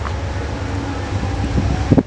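Low, steady rumble of a distant approaching passenger train, mixed with wind on the microphone.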